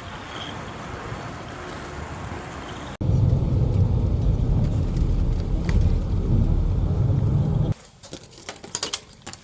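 Steady low rumble of a moving vehicle heard from inside, in short cut-together clips. The rumble gets much louder about three seconds in and drops away abruptly near the end, leaving quieter room noise with a few light clicks.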